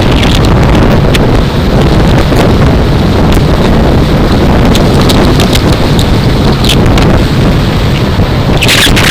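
Loud, steady wind buffeting on a helmet-camera microphone while riding a 2015 Yamaha R3 motorcycle at speed, with the bike's engine buried under it and a few sharp ticks now and then.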